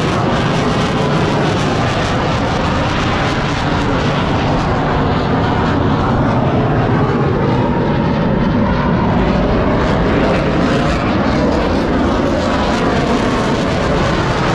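Airplane engine noise from an aircraft flying past during an airshow: a loud, steady rush whose high end thins out in the middle and returns near the end.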